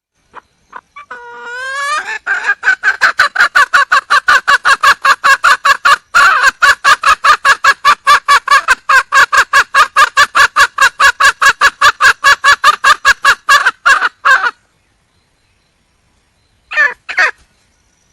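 Red junglefowl hen calling for a mate: a call that rises in pitch at the start, then a long, loud run of rapid, evenly spaced clucks, several a second, that stops abruptly; two short calls follow near the end.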